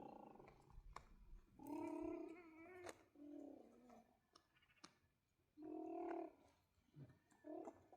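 Four short, faint vocal calls at a steady pitch, each lasting up to about a second, spread through the few seconds.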